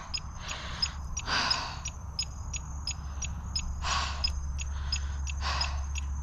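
A cyclist breathing hard after exertion, with four heavy breaths in and out, over a fast steady ticking of about five a second and a low steady rumble.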